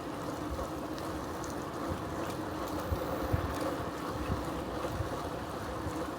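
Steady rolling noise of a bicycle being ridden, with wind buffeting the microphone and a few soft low bumps.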